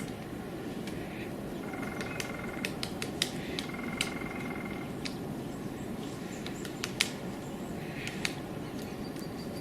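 Woodpecker pecking on wood: sharp single taps at irregular intervals over a steady background hiss. A bird gives short trills twice in the first half.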